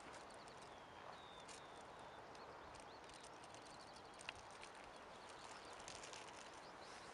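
Faint outdoor ambience: small birds chirping and twittering over a steady hiss, with a single sharp click about four seconds in.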